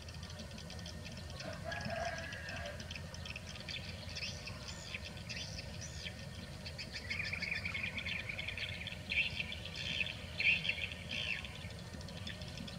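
Birds chirping and twittering, busier from about halfway through, over a steady low background rumble.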